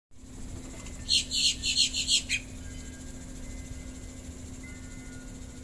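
A bird chirping a quick run of about eight high notes, about a second in and lasting just over a second, over a faint steady hum.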